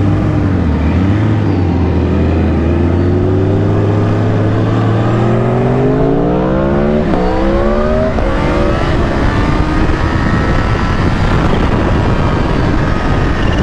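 Kawasaki H2's supercharged inline-four engine accelerating hard from low revs, its pitch rising steadily for several seconds. There is a quick gear change about seven seconds in, and then the revs settle under a steady rush of wind noise at speed.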